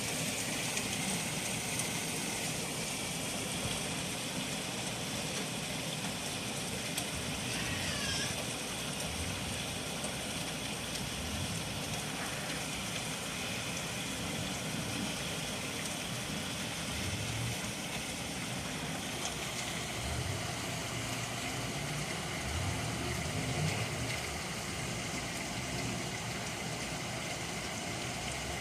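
Hail falling steadily, a dense, even hiss of stones striking. A short falling whistle is heard about eight seconds in.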